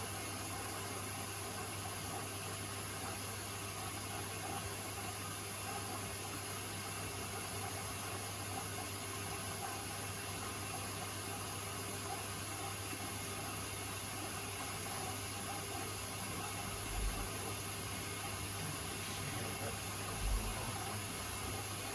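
Beko WTK104121A washing machine running mid-cycle: a steady hiss of water and drum with a constant low hum, and two dull low thuds near the end.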